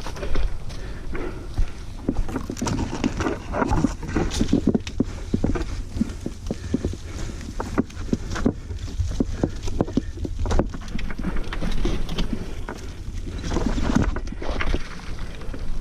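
Mountain bike rattling over a rough dirt trail: a dense, irregular run of knocks and clatter over a steady low rumble.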